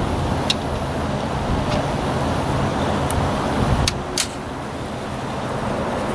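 A few sharp plastic clicks and snaps as a sun visor's trim cover is pried off: one about half a second in and two close together near the four-second mark. They sit over a steady low hum.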